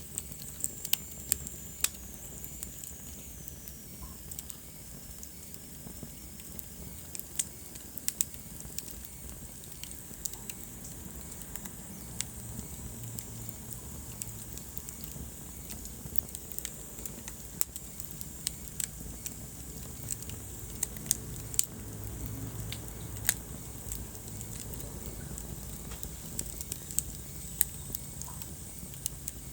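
Wood fire in a fireplace crackling, with sharp pops at irregular intervals over a low steady rumble of the flames. A faint high whistle slides down in pitch in the first few seconds.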